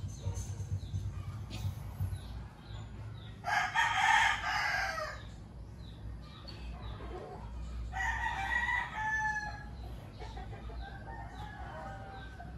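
A bird calling loudly twice, each call lasting about a second and a half and coming a few seconds apart, with a fainter third call near the end and faint short chirps in between.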